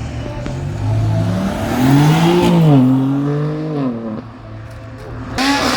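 Car engine revving: the pitch climbs to a peak about two seconds in, falls back and holds briefly, then drops away. A second short rev comes near the end.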